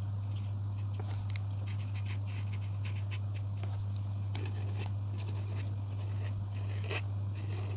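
Coloring strokes on paper: quick, scattered scratches of a coloring tool across the page, over a steady low hum.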